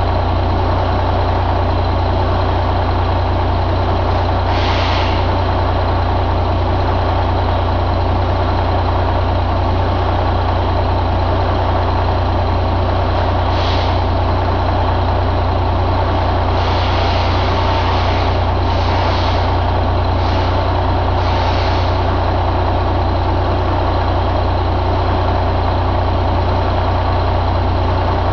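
Detroit DD15 inline-six diesel engine running at a steady idle, with a constant low drone. Several short hisses cut in over it, one about five seconds in, another near the middle, and a cluster a little later.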